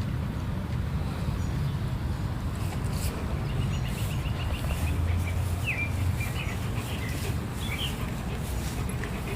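Small birds chirping: a quick trill about three and a half seconds in, then a few sharp separate chirps, over a steady low rumble.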